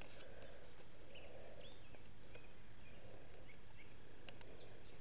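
Outdoor ambience: a steady low hiss with small birds chirping in short calls now and then, and a few faint ticks of paper being creased by hand.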